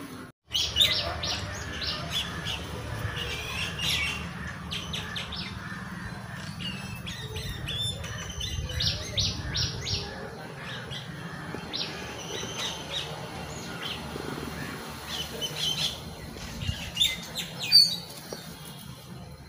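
Small birds chirping, short high chirps in quick runs, over a low rumble that fades out about halfway through.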